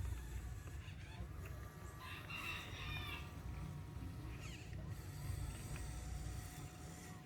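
A rooster crows once, about two seconds in, over a steady low rumble.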